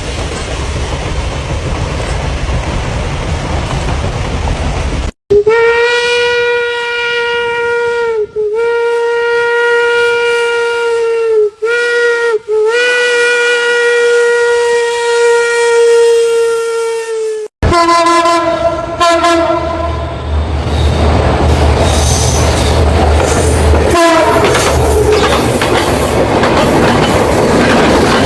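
Train rumbling, then after a sudden cut a train whistle sounding long, steady single-note blasts with short breaks. Another cut brings a briefer, lower-pitched blast, and then a train running past with its wheels clattering on the rail joints.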